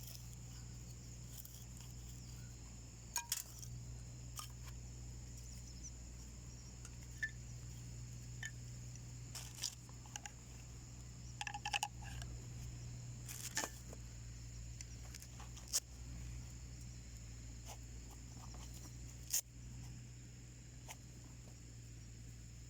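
Wood fire crackling in a homemade wood stove: irregular sharp pops and snaps, about a dozen, scattered over a steady faint background.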